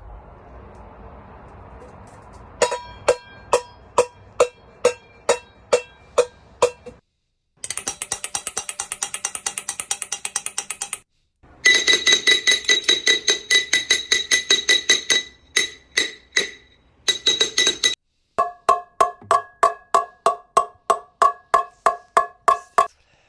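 Metal saucepans being beaten like drums in several short clips cut together: a steady beat of about two strikes a second, then a fast clatter, then dense ringing clangs, then a steady beat of about three strikes a second, each run ending abruptly.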